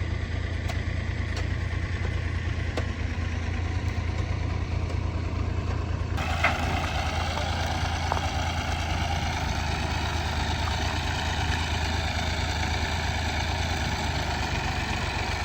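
Farm machinery engine running steadily with a low, even hum; the sound changes abruptly about six seconds in.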